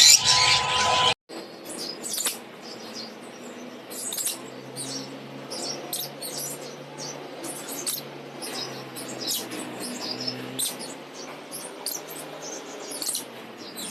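Lovebirds chirping: many short, high, quick chirps in irregular clusters. In the first second a louder sound carrying a steady tone cuts off abruptly before the chirping begins.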